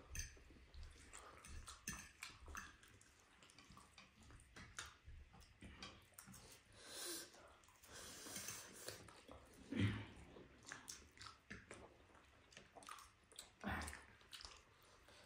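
Quiet chewing of noodles and food, with many small clicks and two louder short mouth sounds, about ten seconds in and near the end.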